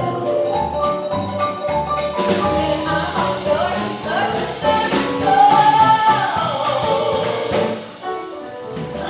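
A live stage song number: singing over instrumental accompaniment, with a long held note about halfway through and the music dropping away near the end.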